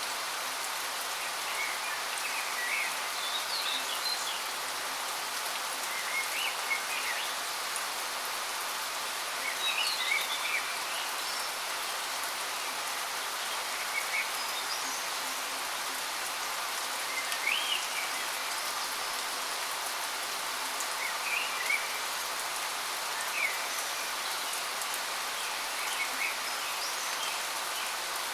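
Waterfall's steady hiss of falling water, with small birds giving short chirps every few seconds.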